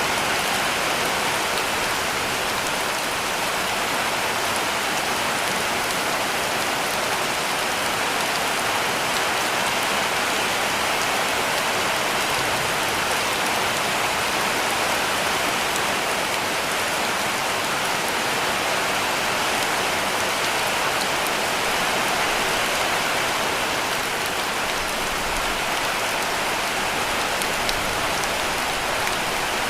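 Heavy rain falling steadily on a cabin roof, an even hiss with scattered drop ticks.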